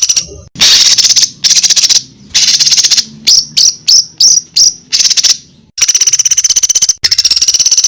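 Masteran recording of high, rapid rattling trills in repeated bursts, with a quick run of short down-slurred notes in the middle, played as song material for training fighter songbirds such as the white-rumped shama.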